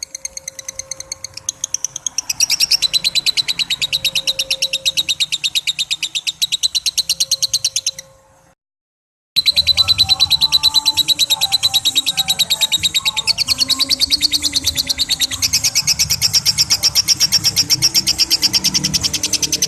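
Lovebird giving its long 'ngekek' chatter: a fast, unbroken run of high, sharp repeated notes. It cuts off dead for under a second about eight seconds in, then carries on.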